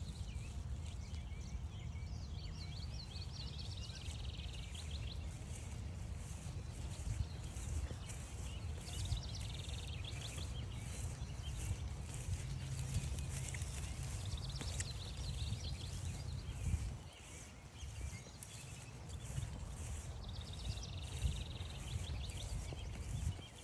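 A songbird sings a short high trilled phrase about every five to six seconds, over a steady low rumble that drops away briefly about two-thirds of the way through, with faint ticking throughout.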